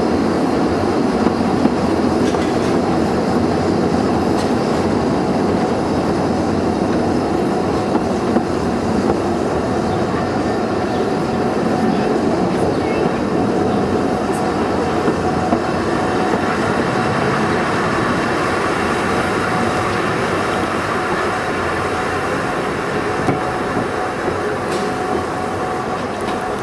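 Isle of Man Railway narrow-gauge carriage rolling slowly along the line, a steady rumble of wheels on rail with a few clicks, heard from an open carriage window. A faint steady whine joins about two-thirds of the way through, and the sound grows a little quieter near the end.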